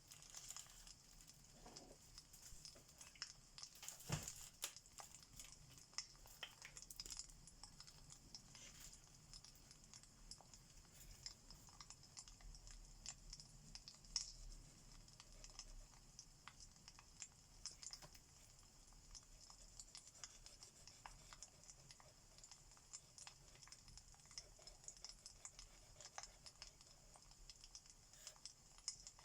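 Faint crackling of a wood fire: irregular small pops and snaps over a steady soft hiss, with sharper pops about four seconds in and about fourteen seconds in.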